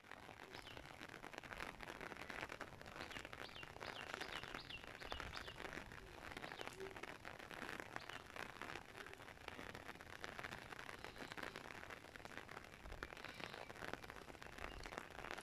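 Light rain pattering steadily and faintly on an umbrella held overhead, with a few bird chirps about three seconds in.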